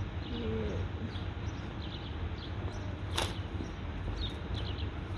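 Birds chirping: short, high chirps repeating over a steady low rumble, with a brief low coo about half a second in and a single sharp click a little after three seconds.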